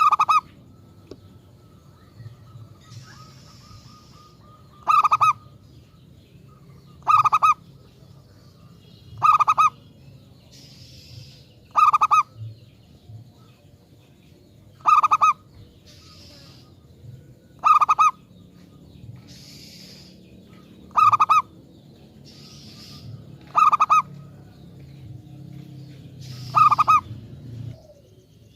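Zebra dove (perkutut) cooing: about ten short, rolling calls, repeated every two to three seconds. Faint higher chirps sound between the calls.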